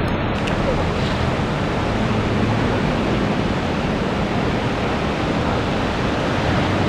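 Swollen floodwater rushing in a steady, loud, unbroken rush of water noise.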